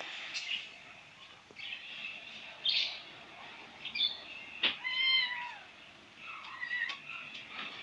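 A cat meowing once, a short high call that rises and falls, about five seconds in, with a sharp click just before it.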